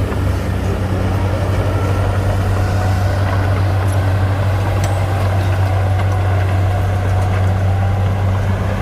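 Heavy diesel engine of earthmoving machinery running steadily under load, a deep, unbroken low hum.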